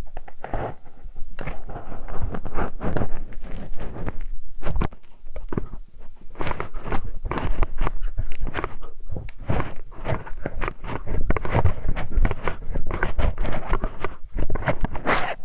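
Close-miked ASMR ear-cleaning sounds: continuous scratching, rubbing and crackling right at the microphone, with many sharp clicks and a low rumble.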